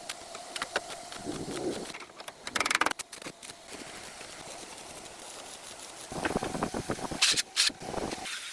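Irregular clicking, scraping and knocking. The loudest part is two sharp knocks a fraction of a second apart near the end.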